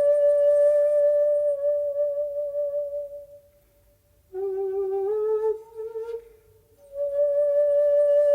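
Solo shakuhachi, the end-blown bamboo flute, playing long breathy held notes. A sustained tone fades out, a short lower phrase climbs in small steps, then the first note is held again with a slight waver.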